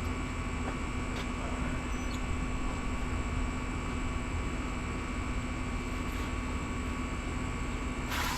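Air conditioner running: a steady whooshing noise with a constant low hum. A brief hiss comes in near the end.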